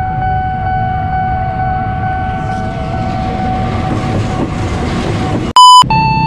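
Diesel locomotive passing close by at a level crossing: a low engine rumble under a rushing, rattling roar of wheels on rail that builds as it goes by. A steady pitched tone fades out under the roar partway through. Near the end there is a short, very loud electronic beep.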